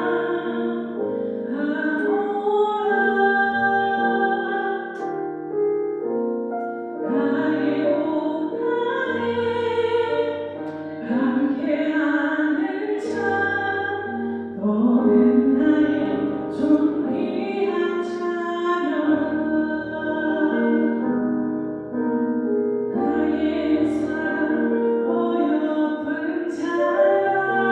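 A solo voice singing a slow song with long held notes over piano accompaniment.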